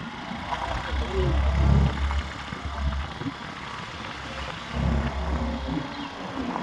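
Motorcycle riding noise, engine and road, with wind buffeting the microphone in two low rumbling gusts, about a second in and again about five seconds in.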